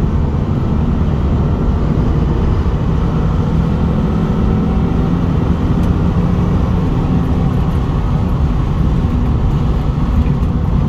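1995 Acura Legend's V6 running at a steady engine speed at high road speed, under a loud, even rush of tyre and road noise; the engine pitch holds level rather than climbing.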